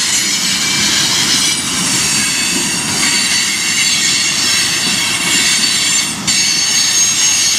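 Freight train of covered hoppers and tank cars rolling past with its brakes applied, brake shoes and wheels squealing in several steady high-pitched tones over the low rumble and clatter of the wheels on the rails. The squeal is the sign of the train braking through a curve, with all the brakes on as the railfan reckons it.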